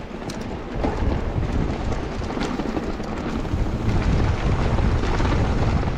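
Wind rumbling on an action camera's microphone while a mountain bike is ridden down a trail, with scattered knocks and rattles from the bike over the ground. The noise grows slightly louder toward the end.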